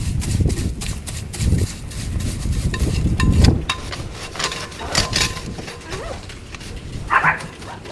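Scraping, rubbing and knocking as soiled bedding is cleaned out of a chicken coop's pull-out tray, in irregular strokes with sharp knocks, and a short higher-pitched sound near the end.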